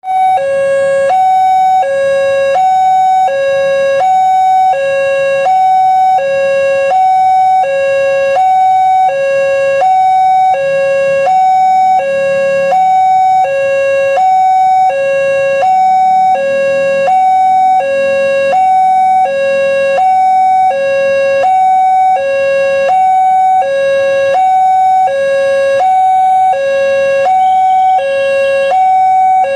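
Railway level-crossing warning alarm sounding: an electronic two-tone signal alternating evenly between a lower and a higher note, about one low-high cycle every one and a half seconds. It warns that a train is approaching and the crossing gates are closing.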